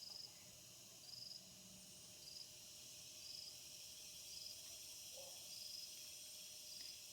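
Insects calling: a cricket giving a short high chirp about once a second over a steady, faint, high insect hiss, with one faint lower call about five seconds in.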